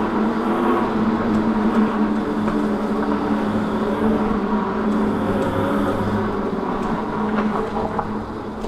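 Mini bike motor running at a steady pitch, easing off slightly near the end.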